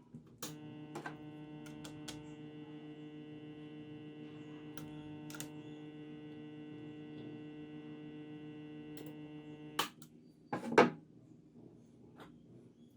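Microwave-oven transformer of a homemade spot welder humming steadily on mains power for about nine seconds, with a few sharp clicks over the hum, then cutting off. About a second later come two loud cracks, the second the loudest.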